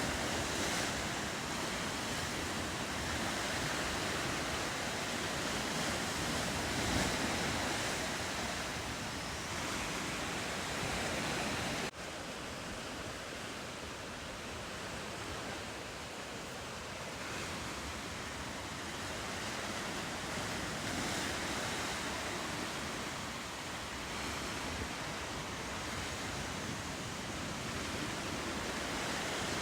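Steady ocean surf with wind on the microphone, broken briefly by a sudden dip about twelve seconds in.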